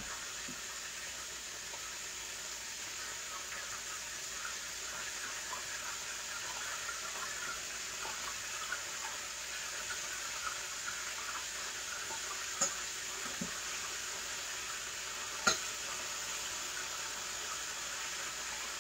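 Chicken wings frying in oil in a pan: a steady sizzle with small crackles and pops throughout. Two sharp knocks stand out about two-thirds of the way through.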